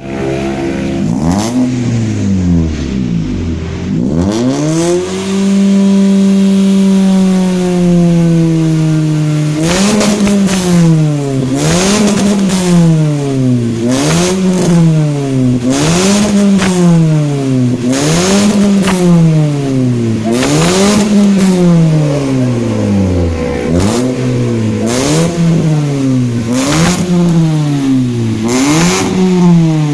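Toyota Calya's 1.2-litre four-cylinder engine revving through an aftermarket 4-2-1 header, resonator and racing muffler. Its pitch climbs about four seconds in and holds for a few seconds, then the throttle is blipped repeatedly, each rev rising and falling about every two seconds.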